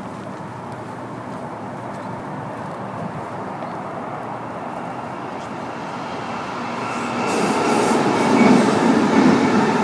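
A train passing on a nearby line, a steady rumble of wheels on rails that grows louder over the last few seconds as it comes closer.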